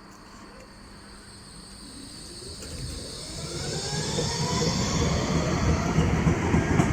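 Nottingham Express Transit Bombardier Incentro tram pulling away and accelerating. The traction motors give a rising whine over a growing rumble of wheels on rail, getting steadily louder.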